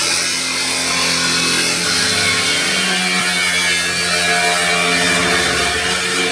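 A power-tool motor running steadily with a loud, continuous hum and hiss, its pitch shifting once about two to three seconds in.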